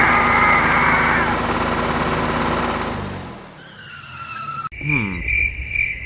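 A vehicle engine running steadily, with a short skidding screech over the first second. The engine fades away about three seconds in, and short tonal sounds and falling voice-like glides follow near the end.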